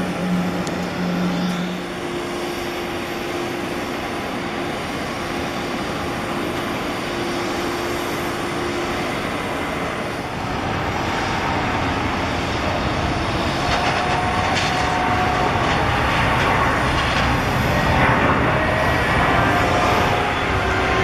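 Jet airliner engines running, a steady roar with whining tones, growing louder from about ten seconds in as the whining tones shift in pitch.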